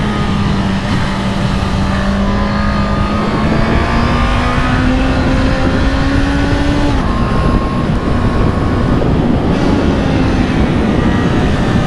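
Honda CB650R's inline-four engine pulling under load, its note climbing slowly and then dropping abruptly about seven seconds in as it shifts up through the quickshifter, over heavy wind rush.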